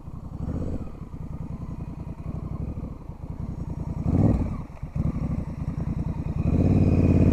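Motorcycle engine running at low speed through a slow weave drill. The throttle opens briefly about four seconds in, and the engine grows louder near the end as the bike comes closer.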